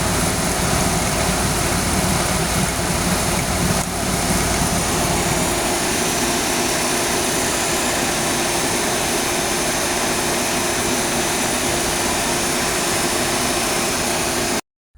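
Suzuki Karimun engine running at idle with the electric radiator fan spinning fast, a loud, steady whooshing rush heard close up in the engine bay. It cuts off suddenly near the end.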